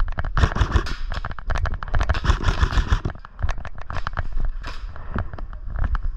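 Airsoft guns firing: rapid strings of sharp pops and cracks, several a second.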